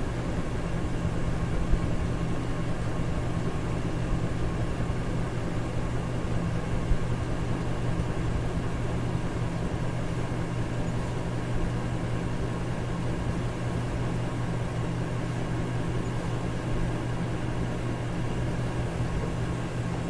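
Electric fan running steadily: a constant rush of air over a low motor hum, with a few faint steady tones.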